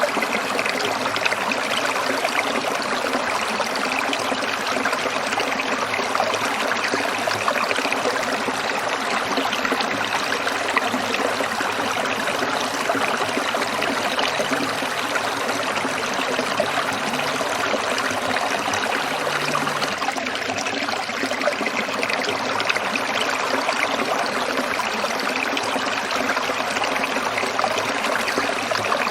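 Shallow stream trickling and splashing over stones, a steady, even water sound.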